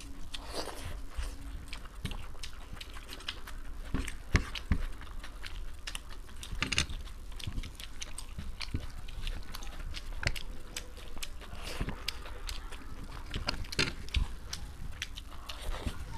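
Close-miked eating sounds: two people chewing and smacking mouthfuls of soft rice pulao and egg curry, with many small wet clicks, and fingers squishing and mixing the rice on their plates.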